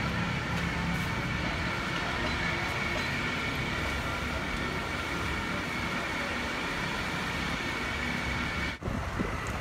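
Steady mechanical rumble with a steady high whine over it, dropping out briefly near the end.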